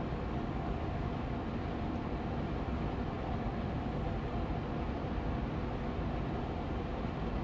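Air purifier fan running steadily on medium speed: an even whooshing hum, heaviest in the low end, with a faint steady motor tone.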